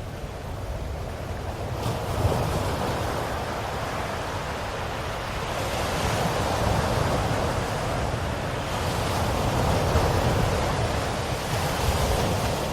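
Ocean waves washing onto shore, a steady surf hiss that swells as waves break about two seconds in, again around six seconds and again after nine seconds.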